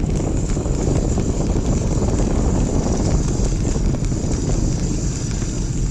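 Wind buffeting the microphone while a bicycle descends a steep road: a dense, steady rushing rumble.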